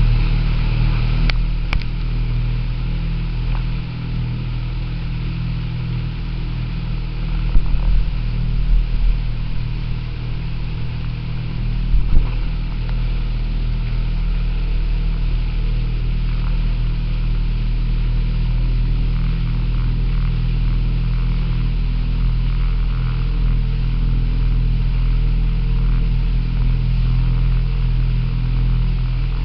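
Motorboat engine running steadily with a low hum, with a few louder thumps about eight and twelve seconds in.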